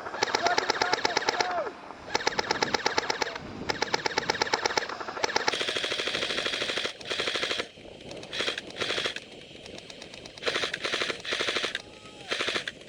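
Automatic airsoft guns firing long full-auto bursts, one after another. The bursts are loud and close together for the first five seconds or so, then shorter and fainter.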